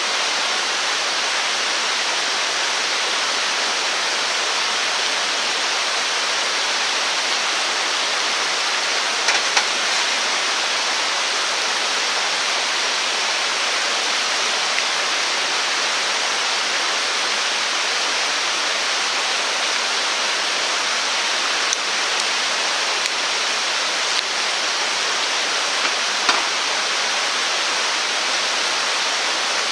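Steady rushing of a stream, even and unbroken, with a few faint clicks now and then.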